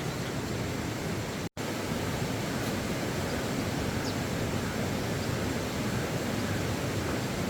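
Steady rushing noise with no clear pitch or rhythm, cut off for a split second about one and a half seconds in.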